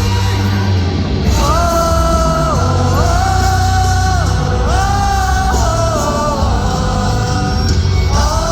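Live rock band playing a power ballad: long held high notes that slide from one pitch to the next over steady bass and drums.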